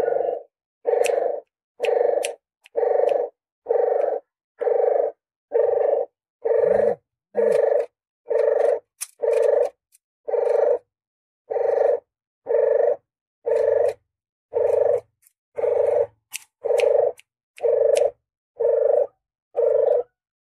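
Recorded lure call of a puter geni dove: short coos repeated evenly about once a second, about twenty in a row.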